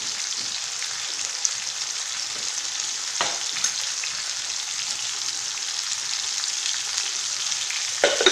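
Tomato slices with crushed garlic frying in hot oil in a frying pan: a steady sizzle, with one brief click about three seconds in.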